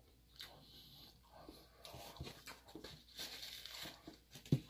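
Close-up mouth sounds of someone chewing soft frosted cake: small wet clicks and smacks, with a sharp click near the end.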